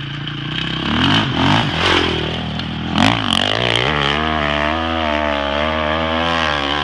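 Dirt bike engine revving hard under load climbing a sand hill. Its pitch rises and falls sharply in the first three seconds, then holds high and wavering from about four seconds in.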